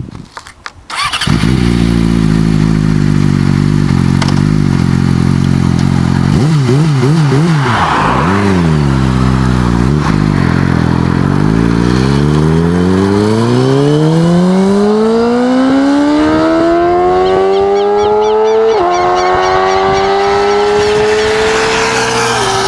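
A Yamaha R6 sport bike's engine idles, is blipped a few times, then revs climb steadily as the bike accelerates away, with two upshifts near the end where the pitch drops sharply and climbs again.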